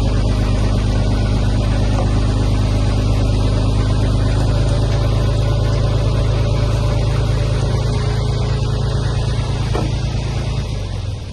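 Heavy diesel earthmoving-machine engine running steadily under load, dropping away near the end.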